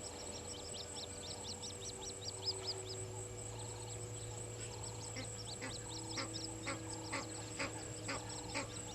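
Wild animal calls at a bush waterhole: quick high chirps repeating several times a second throughout. About halfway in, a lower, rhythmic call repeating about twice a second joins them, over a steady high tone and low hum.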